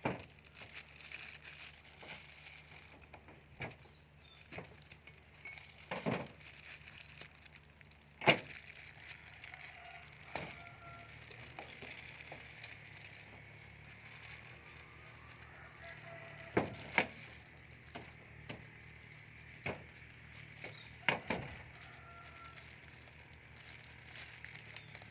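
Durian husk being handled and pried apart: irregular sharp cracks and knocks of the spiny rind, the loudest about eight seconds in and a few more close together past the middle, over a faint steady outdoor haze.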